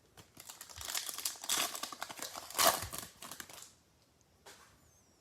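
Foil wrapper of a trading-card pack crinkling and tearing as it is opened, a few seconds of crackling with the sharpest rips about halfway through.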